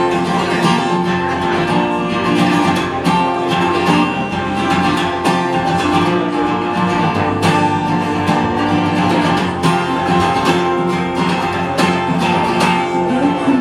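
Acoustic guitar playing alone in an instrumental break between verses of a folk ballad, strummed in a steady, even rhythm.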